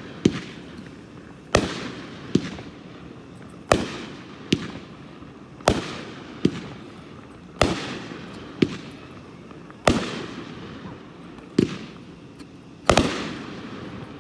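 A 10-shot, 200-gram consumer firework cake firing shot after shot, about one every two seconds. Each shot is a loud bang followed by a second, sharper crack just under a second later.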